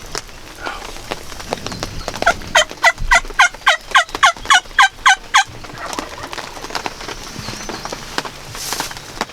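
A run of about a dozen turkey yelps, quick and evenly spaced at about four a second, each note falling in pitch, starting a couple of seconds in and stopping about three seconds later.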